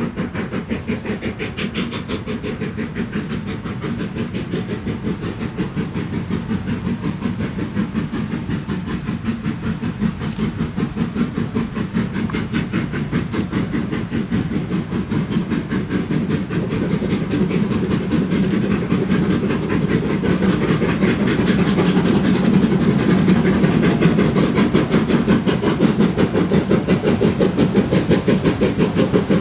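Steam locomotive running with rapid, regular exhaust beats and a hiss of steam. It grows steadily louder as it draws closer.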